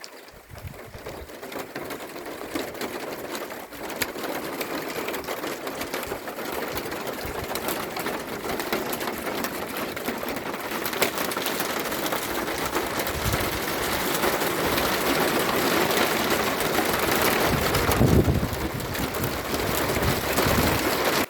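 Rain coming down harder and harder: a steady hiss filled with the patter of drops, growing louder through the stretch and stopping abruptly at the end.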